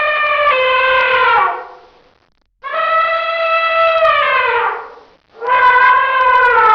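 Elephant trumpeting: a run of long calls, each holding a steady pitch and then sliding down at its end, with short gaps between them. One call ends about a second and a half in, a second runs from about two and a half seconds to nearly five, and a third begins just after it.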